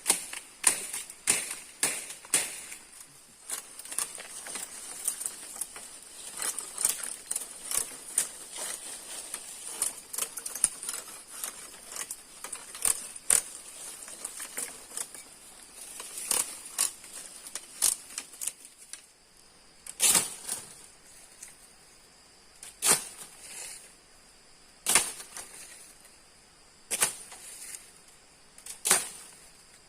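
Wood being chopped with a blade in a series of sharp strikes. The strikes come quickly at first, then slow to about one every two seconds in the second half.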